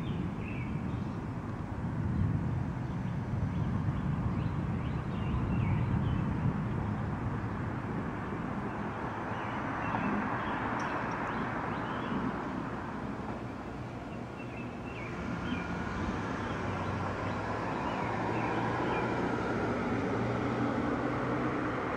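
Thunder rolling and rumbling, swelling and easing several times over a steady wash of storm noise, with faint high chirping calls throughout.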